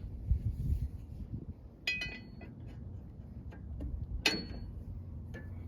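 Steel hand tools clinking against metal chassis parts: a few quick ringing taps about two seconds in, then a single louder ringing clank about four seconds in.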